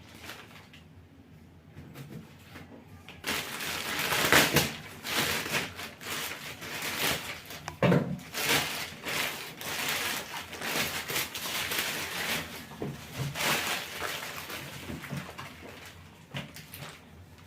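The box of a microphone being opened by hand, with packaging rustling and scraping and small knocks and clicks throughout. It starts about three seconds in, after a short quiet spell.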